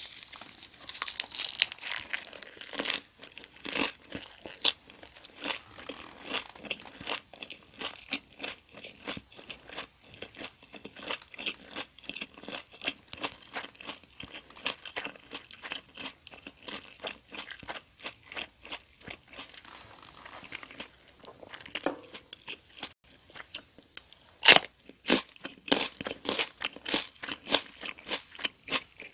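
Close-miked chewing of jokbal (braised pig's trotter) wrapped in a perilla leaf: a steady run of chewy, wet mouth clicks and crunches. Near the end the chewing gets louder and crisper.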